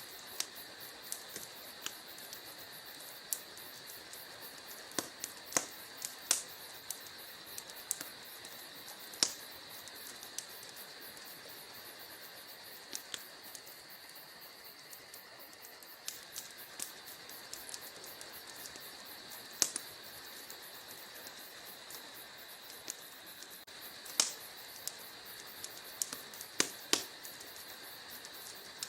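Wood fire in a fireplace crackling: irregular sharp pops and snaps, some much louder than others, over a steady hiss.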